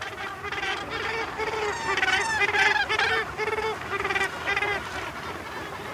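Cape gannet breeding colony calling: many harsh, honking calls overlapping and repeating a few times a second, loudest about two seconds in and thinning near the end.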